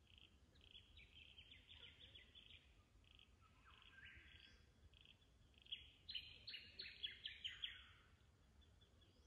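Birds calling: a regular series of short high pips, about two a second, with bursts of rapid louder notes about a second in and again near the end, the later burst the loudest.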